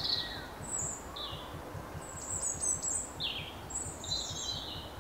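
Small woodland birds calling: a scattered series of short, high chirps and calls, some sliding down in pitch, over a low background rumble.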